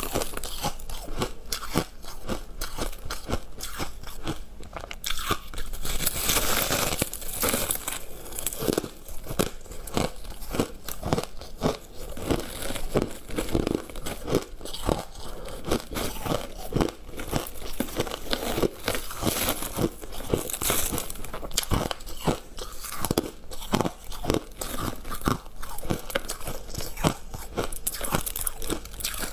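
Close-up crunching and chewing of refrozen freezer frost with hard ice inside: a dense run of irregular sharp cracks and crackles, with more frequent, louder crunching for a few seconds about six seconds in.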